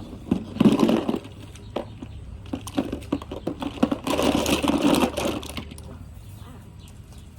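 Plastic lip products clicking and clattering together, with the rustle of a fabric makeup bag, as the bag is emptied out; the two loudest rustling rattles come about a second in and again around four to five seconds in.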